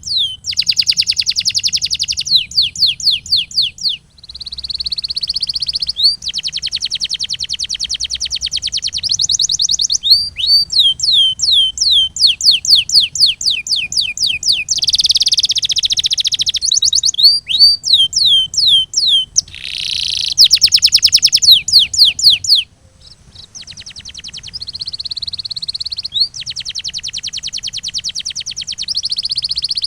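Domestic canary singing a continuous song. Runs of clear, high notes that each slide downward alternate with fast rolling trills, changing phrase every few seconds.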